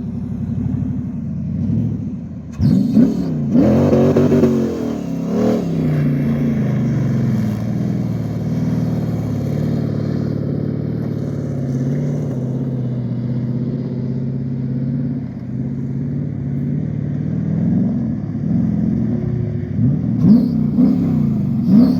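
Dune buggy's aluminium Chevrolet LS1 5.7-litre V8 revving in quick rises and falls a few seconds in, then running at a fairly steady speed, with more quick revs near the end.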